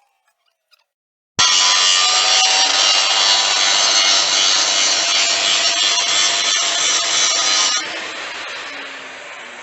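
Angle grinder grinding steel, starting suddenly about a second and a half in with a loud, dense whine; near the end it eases off and fades.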